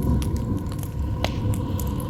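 Campfire burning in wind: a steady low rumble of wind with scattered sharp crackles and pops from the burning wood.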